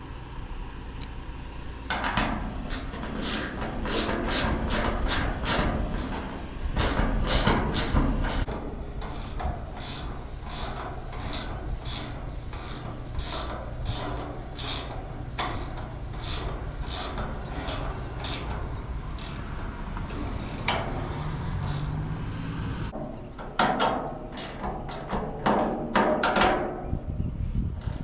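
Ratcheting wrench with a direction dial clicking in steady strokes, about two clicks a second, as a nut is run down on a bolt; it pauses, then clicks a few more times near the end.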